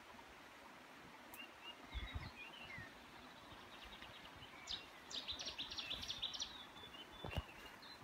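Wild birds chirping and singing, faint, with short calls in the first few seconds and a rapid run of sharp, high repeated notes about five seconds in. A few low thumps also sound, the loudest shortly before the end.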